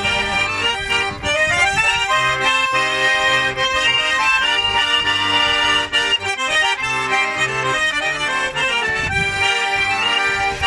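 Russian garmon (button accordion) playing an instrumental melody over a repeating bass-and-chord accompaniment, with no singing.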